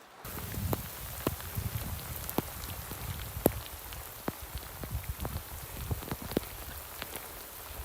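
Steady rain falling, with many separate drops landing close by as sharp taps scattered irregularly over a continuous hiss.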